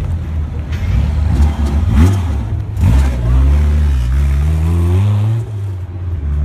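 Modified Honda S2000 sports car engine, revved in two quick blips about two and three seconds in, then pulling away with a steadily rising pitch that drops off after about five and a half seconds.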